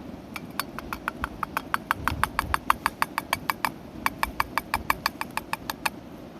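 Rapid, even tapping of a cooking utensil, about six sharp clicks a second, in two runs with a short break about two-thirds of the way through.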